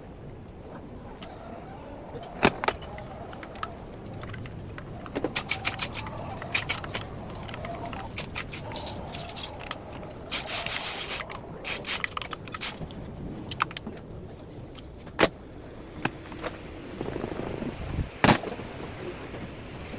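Scattered metallic clinks and knocks of hand tools and engine parts being handled, with a few sharper knocks standing out and a brief hiss about halfway through.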